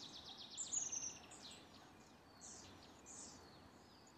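Faint woodland birdsong: a fast, high trill over about the first second, then a few short high notes sweeping downward.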